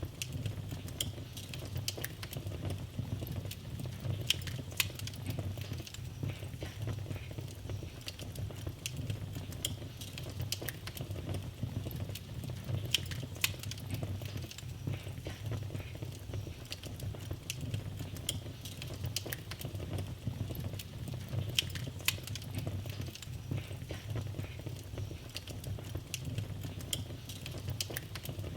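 Wood fire crackling in a fireplace: a steady low rumble with frequent, irregular sharp pops and snaps.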